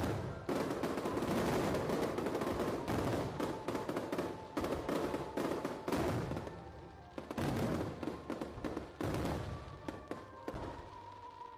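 Fireworks going off in dense, rapid crackling volleys of sharp reports, thinning out in the second half to scattered bangs with short gaps.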